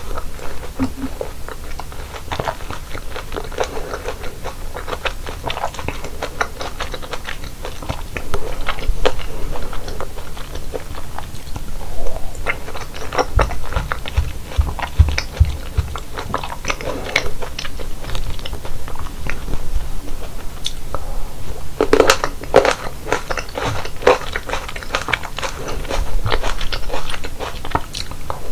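Close-miked biting and chewing of fresh fruit: a steady run of wet, crunchy chews, with a louder cluster of bites about three quarters of the way through.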